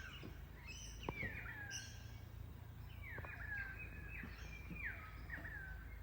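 Birds calling: a string of short, falling chirps, several in quick succession at times, over a faint steady low hum.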